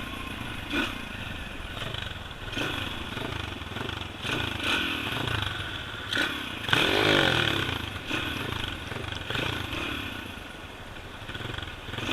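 Small pit bike engine revving up and down repeatedly, with its loudest rev about seven seconds in.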